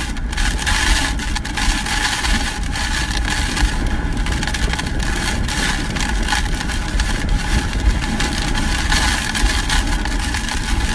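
Hurricane-force wind blowing hard and buffeting the microphone with a heavy, uneven rumble, over a steady whistle.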